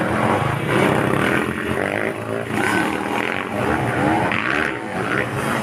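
Dirt bike engines on a motocross track, several at once, revving up and down as the riders work the throttle.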